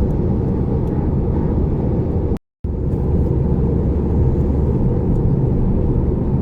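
Steady road and engine rumble inside a moving car's cabin while driving. The sound cuts out completely for a moment about two and a half seconds in, then resumes the same.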